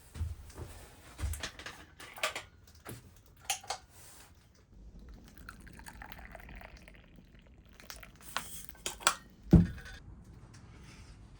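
Scattered clicks, taps and knocks of objects being handled in a small enclosed space, with one heavy thump about nine and a half seconds in.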